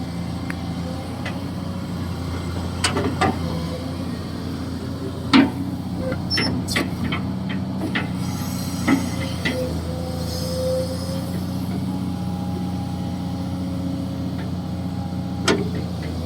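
Kobelco SK200-6 Super hydraulic excavator's diesel engine running steadily, with scattered sharp metallic knocks and clanks from the working machine, the loudest about five seconds in.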